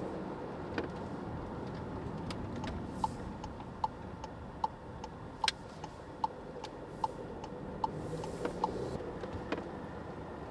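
A car's turn-signal indicator ticking in a steady rhythm, about eight ticks spaced under a second apart, starting a few seconds in and stopping near the end. Underneath, the steady noise of the car driving, heard from inside the cabin.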